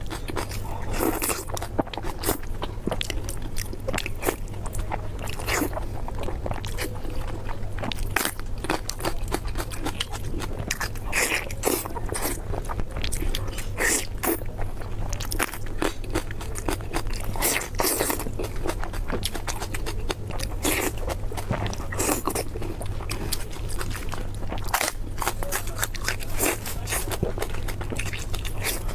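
Close-miked crunching and chewing of crispy food: many sharp crunches at irregular intervals over a steady low hum.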